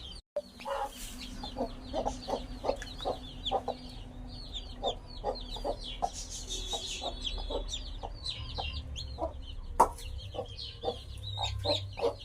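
Domestic chicks peeping rapidly and continuously in high chirps, with a hen clucking in short, lower notes about twice a second. A single sharp click about ten seconds in.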